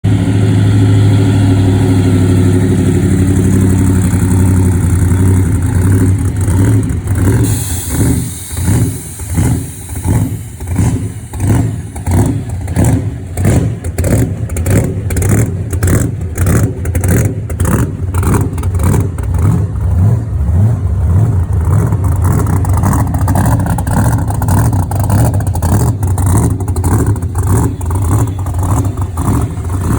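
Supercharged 555 big-block V8 in a 1972 Chevy pickup, loud. It holds a steady drone for several seconds, then settles into an uneven, pulsing lope. A brief hiss comes about eight seconds in.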